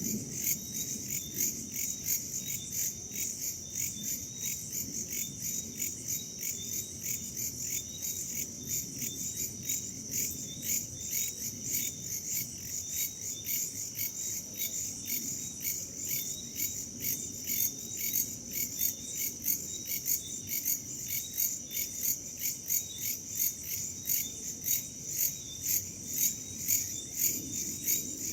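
A chorus of crickets and other insects chirping in a steady, fast pulsing rhythm, high-pitched, over a low rush of wind.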